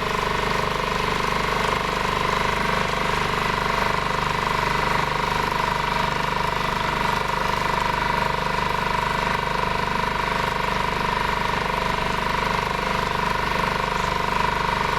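Boat motor running steadily under way, an even drone with a steady high hum that does not change in pitch or level.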